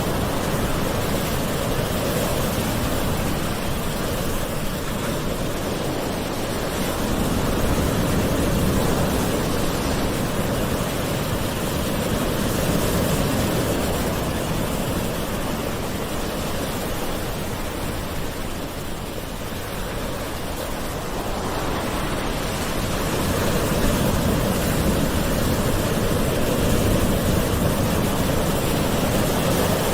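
Gentle sea waves washing on a shore: a continuous rush of surf that slowly swells and eases.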